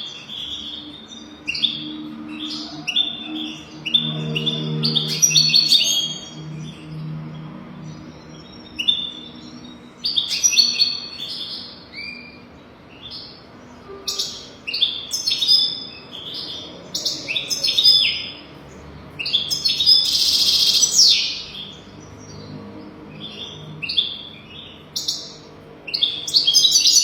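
European goldfinch singing: bursts of fast, liquid twittering and sharp tweets, in a string of phrases broken by short pauses, used as a tutor song for training young goldfinches.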